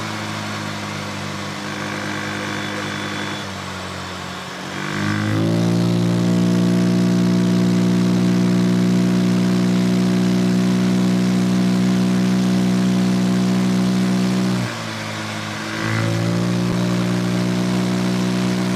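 Vespa Sprint 150 scooter's single-cylinder four-stroke engine, fitted with a Malossi CVT kit, being ridden: low revs for the first few seconds, then the pitch rises about five seconds in and holds steady as the CVT keeps the revs constant, drops briefly near the end when the throttle eases, and rises again to the same steady pitch.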